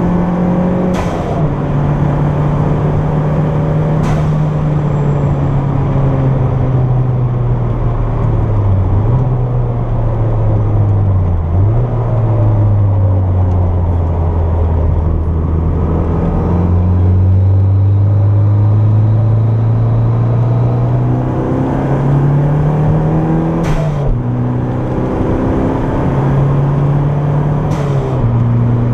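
Toyota MR2's turbocharged engine under way. Its revs fall with two quick rev blips as it slows, then it accelerates hard, with two upshifts near the end.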